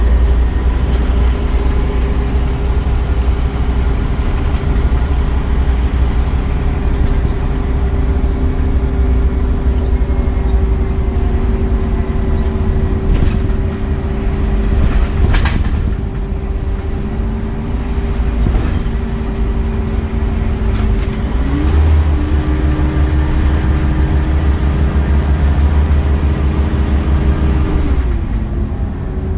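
Scania OmniCity bus engine running with a steady drone. The engine pitch steps up a little over two-thirds of the way through as it pulls harder, holds, then falls back near the end. A brief knock or rattle about halfway.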